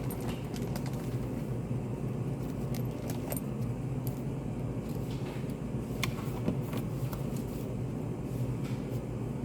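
Study-café room ambience: a steady low hum with scattered small clicks and taps, one a little sharper about six seconds in.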